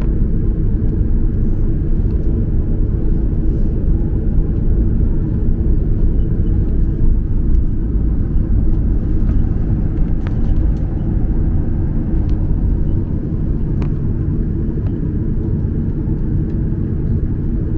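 Steady low cabin rumble of a Boeing 737-800 airliner, heard from inside the passenger cabin: engine and airflow noise with no clear rise or fall.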